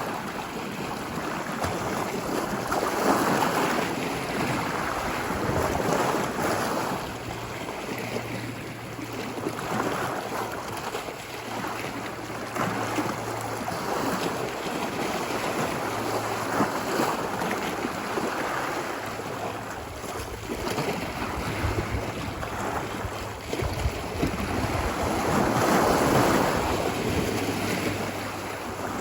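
Ocean waves washing ashore, a continuous rush of surf that swells and eases every few seconds, loudest near the end. A faint low steady hum runs underneath.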